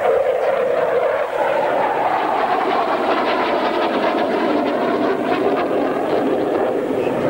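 Jet noise from a Mirage fighter's engine as it flies its display, a loud steady roar whose pitch sinks a few seconds in and climbs again near the end.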